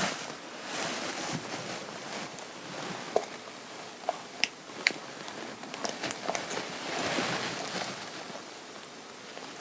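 Fabric rustling and rubbing as clothing is handled, with a few small sharp clicks around the middle.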